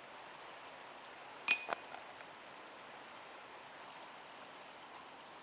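A putted disc strikes a disc golf basket: a sharp metallic clank with a short ringing tone, a second hit just after, then a couple of small chain clinks.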